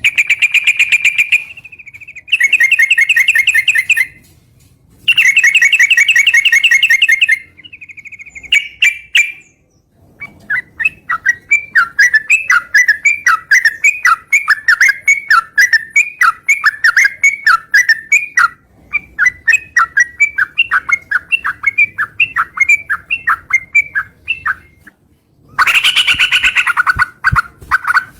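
Yellow-vented bulbul (trucukan) calling loudly. It gives three bursts of fast buzzing trills, then after a pause a long run of quick chattering notes, and the loud trilling returns near the end.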